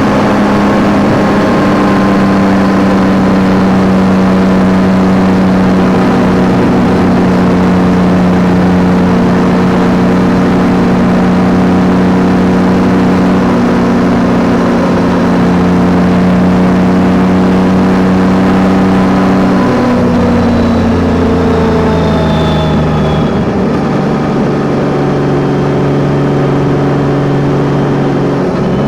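Yamaha Tracer 9 GT's 890 cc inline-three engine running at steady revs while riding, over a constant rush of wind and road noise. About 20 s in the engine note drops, settling at lower revs from about 23 s.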